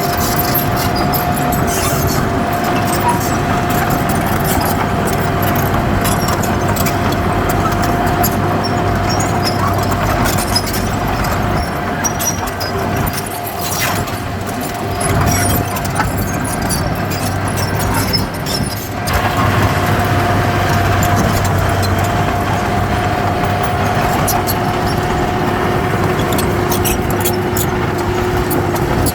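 Heavy earthmoving machinery running steadily: a deep engine drone under a held high whine, with light clicking throughout. The whine fades for a few seconds past the middle, then returns.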